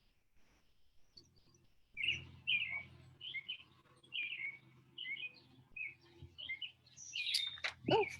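A bird singing a run of short, repeated chirping notes, about two a second, starting about two seconds in, over a faint low steady hum.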